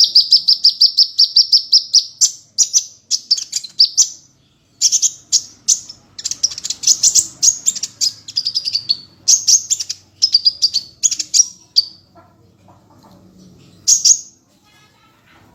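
Sunbird (genus Aethopyga) singing: fast runs of high, sharp chirping notes in several phrases with short pauses between, then one short call near the end.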